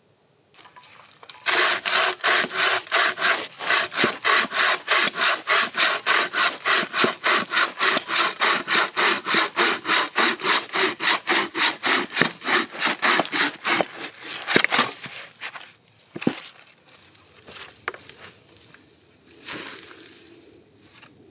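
Hand saw cutting through wood in quick, even back-and-forth strokes, about four a second, for some thirteen seconds before stopping. After it, a few scattered knocks and handling sounds.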